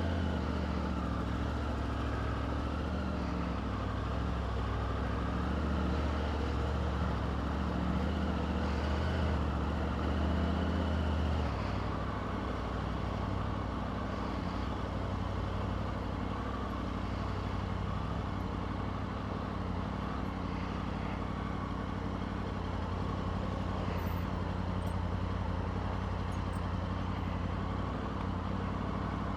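Motorbike engine running steadily while riding, with road and wind noise, picked up by a wireless clip-on mic with its noise cancellation off. The low engine note drops and changes about twelve seconds in.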